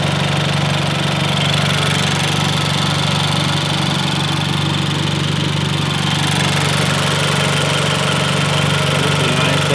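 A 10th-gen Honda Civic's turbocharged four-cylinder engine idling steadily.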